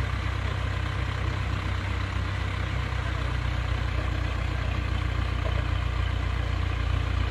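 A heavy vehicle engine running steadily.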